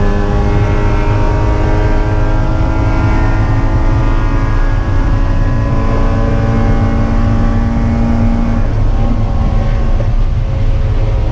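Spec Miata race car's four-cylinder engine running continuously under a heavy low rumble, its pitch holding fairly steady with small shifts.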